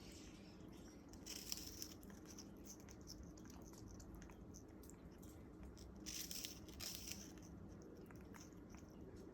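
African grey parrot biting and tearing at a piece of sugarcane: two short bouts of crisp crunching, about a second and a half in and again around six to seven seconds, with small scattered clicks of its beak between them.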